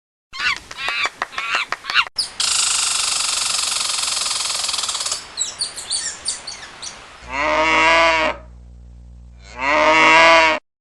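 A string of sound-effect clips: a run of short rising-and-falling calls, a noisy stretch with chirps, then a cow mooing twice in two long, falling calls near the end.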